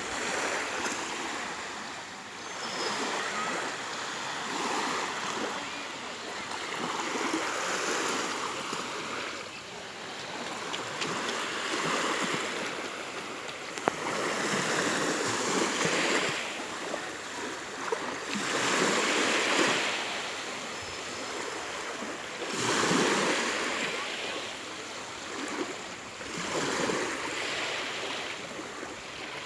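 Small waves on the Sea of Azov washing onto the shore, the surf swelling and fading about every three to four seconds. A single short click about halfway through.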